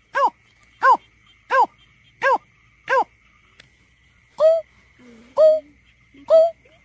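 Greater painted-snipe calling: a run of short hooting notes about 0.7 s apart, then, after a brief pause, slower notes of a different, falling shape about once a second.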